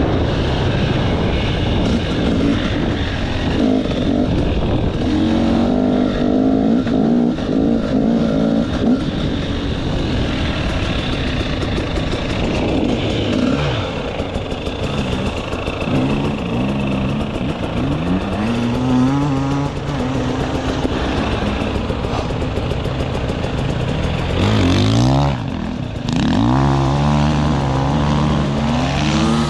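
Enduro motorcycle engine riding hard off-road, its revs repeatedly climbing and dropping with throttle and gear changes, with a brief dip about 25 seconds in before it revs up again.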